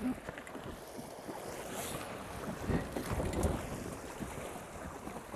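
Wind buffeting the microphone and water rushing past the hulls of a sailing catamaran under way, swelling a little past the middle, with a short knock right at the start.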